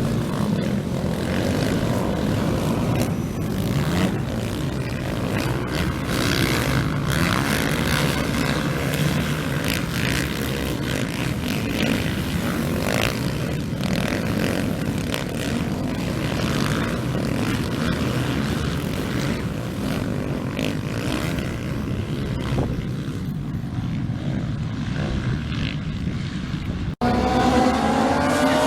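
Racing motorcycle engines running as a dense, steady rumble. Near the end the sound cuts off suddenly, and a nearer engine revs up with rising pitch.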